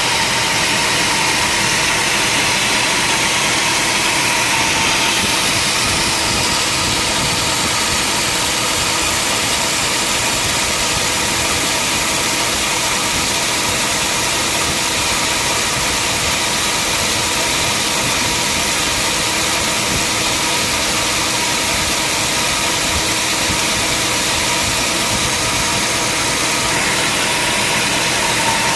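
Sawmill machinery running steadily: a continuous engine-like drone with a steady high tone, at an even level throughout.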